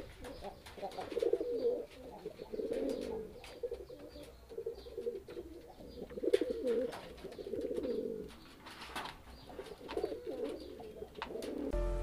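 Domestic pigeons cooing in repeated low, warbling phrases, with scattered light clicks and taps.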